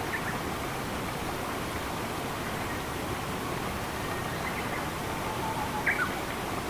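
Steady rushing of running water, an even hiss-like wash. Over it come a few short bird chirps; the loudest comes about six seconds in.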